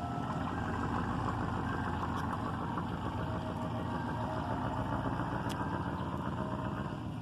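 Street-vending truck's engine running steadily at close range, with the faint notes of its chime jingle playing underneath.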